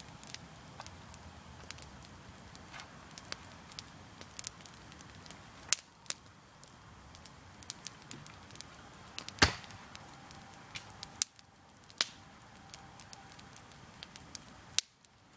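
Campfire crackling: burning logs giving off irregular sharp pops and ticks, with a few louder snaps, the loudest about nine seconds in.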